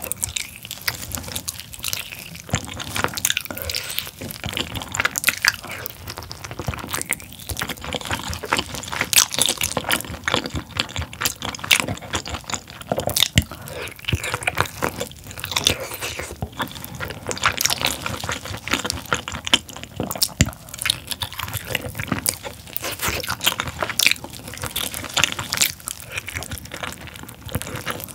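Close-miked biting and chewing of a spicy braised pork tail: wet, chewy mouth sounds with many small irregular clicks and smacks.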